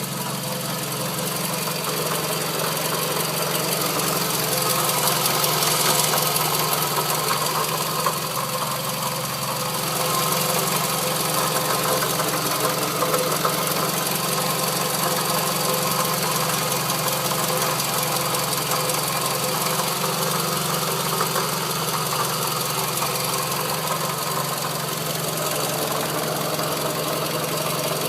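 The 2.4-litre four-cylinder engine of a 2008 Scion tC running steadily with an ugly knocking, scraping noise from a failing water pump. The owner at first feared rod knock.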